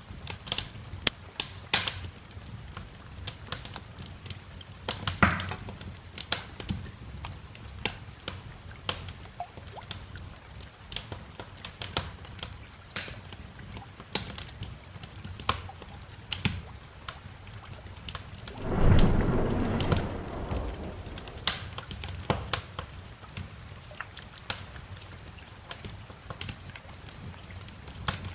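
Wood fire crackling in a fireplace, with sharp pops and snaps every second or so over a steady hiss of rain. About two-thirds of the way through, a short roll of thunder rumbles for about two seconds.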